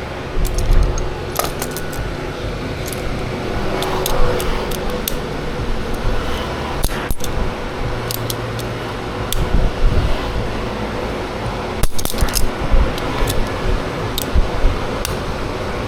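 Irregular light metallic clicks and clinks of hand tools and small metal parts being handled, over a steady low hum.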